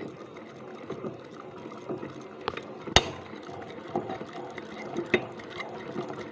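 IZh Planeta 5 motorcycle engine turned over slowly by hand at the crankshaft, its internals giving an irregular grinding rattle of small clicks with a sharp click about three seconds in. The mechanic takes the noise for something in the gearbox on the clutch side.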